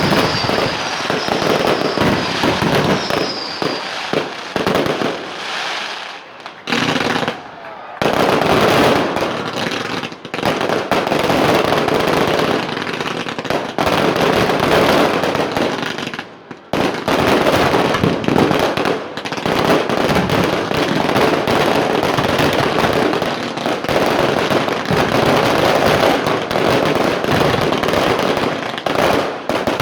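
Fireworks display: dense, continuous bangs and crackling, with short lulls about six to eight seconds in and again around sixteen seconds in.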